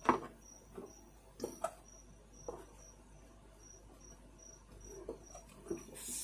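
A cricket chirping steadily, a short high chirp repeating about two or three times a second. A few clicks and knocks sound over it, the loudest right at the start.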